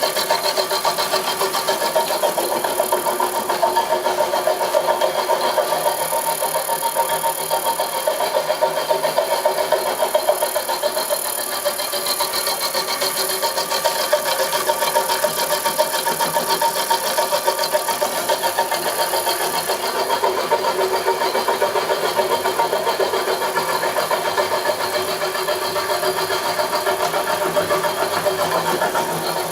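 A homemade milling machine running steadily, a continuous mechanical whir with several steady tones and a fast, even flutter.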